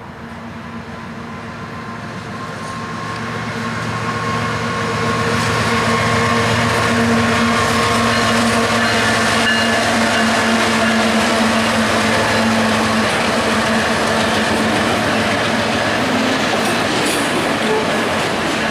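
Diesel-hauled freight train approaching and passing close by: the sound grows louder over the first five seconds or so, then holds as a steady, loud rumble of engine and rolling wheels.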